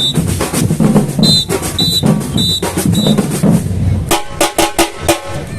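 Samba batucada drum ensemble playing, with bass drums and snares, while a whistle blows four short blasts about half a second apart. A little past the middle the drumming breaks into a quick run of sharp, ringing strokes.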